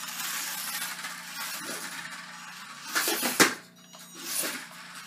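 WLtoys L939 toy RC truck driving fast on a hard floor: a hissing rush of its small electric motor and tyres that swells and fades several times, with a sharp knock about three and a half seconds in.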